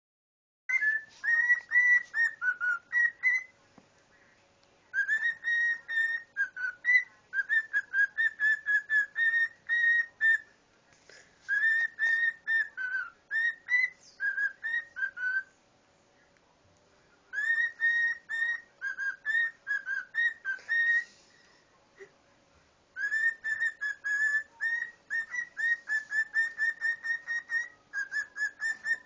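A pet cockatiel whistling its song in quick runs of short, clear notes. The runs come in several phrases with brief pauses between them.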